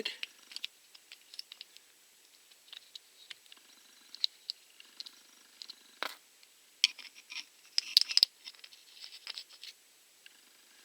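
Scattered small clicks, taps and scrapes of hand tools and small parts as the cover plate is taken off a chainsaw carburetor, with a sharp click about six seconds in and a busier cluster of clicks about two seconds later.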